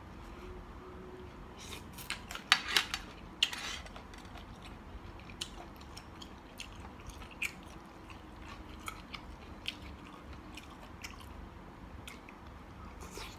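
A person chewing mouthfuls of spicy seafood salad with squid and shrimp, with a cluster of loud sharp clicks about two to three and a half seconds in, then scattered smaller clicks and smacks.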